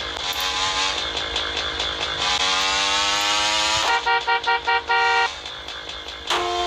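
Motorcycle engine running and accelerating, its pitch rising, over steady wind and road noise. About four seconds in, a vehicle horn honks in several short beeps ending in a longer one, and another horn starts near the end.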